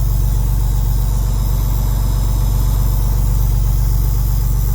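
Ford cabover semi truck's diesel engine idling steadily after a cold start, a constant low hum.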